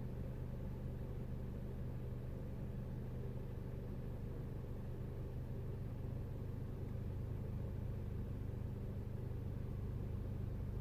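Peugeot RCZ 1.6 THP turbocharged four-cylinder petrol engine idling steadily while warming up from a cold start.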